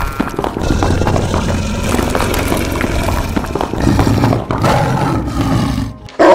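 Busy cartoon sound effects with a steady low rumble like a racing engine. A short, very loud burst comes near the end.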